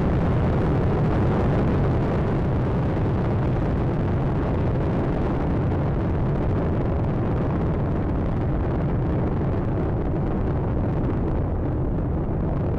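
Space Shuttle Atlantis's launch roar: the solid rocket boosters and main engines give a steady, loud rumble, heaviest in the low end, while the shuttle climbs, with the high end easing slightly near the end.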